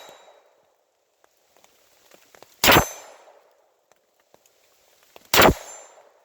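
Two shots from a Taurus TX22 .22 LR pistol, about two and a half seconds apart, each a sharp crack with a short fading tail.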